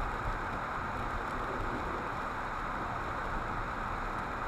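Steady road and engine noise heard inside a moving car's cabin, an even rumble and hiss without breaks.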